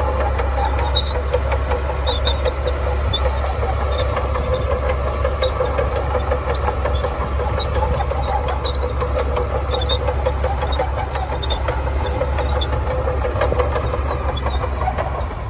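Shantui DH17C2 crawler bulldozer's diesel engine running steadily under work, with a deep rumble and scattered faint high clicks.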